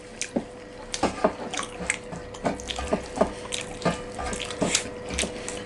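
Close-miked wet eating sounds: irregular chewing, smacking and squelching of food, with a faint steady hum underneath.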